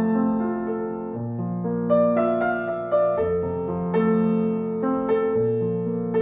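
Slow, gentle solo piano music: sustained chords and melody notes struck every half second or so and left to ring.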